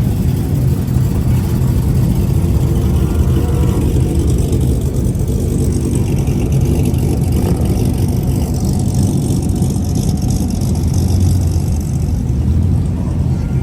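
Car engine running with a steady low exhaust rumble.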